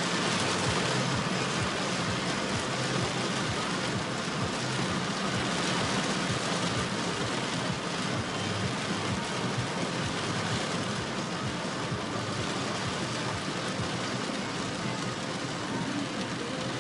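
Heavy rain pouring down onto a moving car in a steady hiss, with the car's engine and tyres running low underneath.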